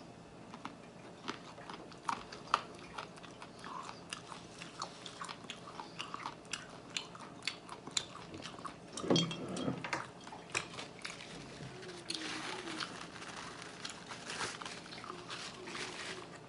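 Close-miked chewing and biting of buffalo chicken wings: many sharp crunches, clicks and mouth smacks.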